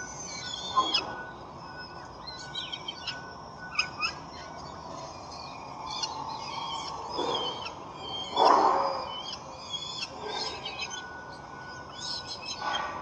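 Birds chirping around a nest: many short, high chirps scattered throughout, with a couple of louder rushing bursts of noise a little past the middle.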